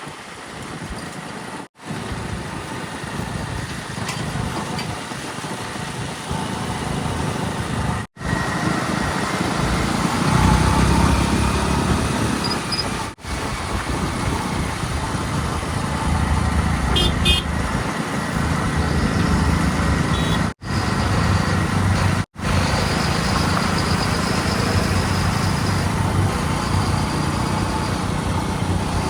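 Heavy diesel machinery and vehicle engines running, with the low engine note growing louder about a third of the way in. The sound breaks off abruptly several times at cuts between clips, and a few short high beeps come near the middle.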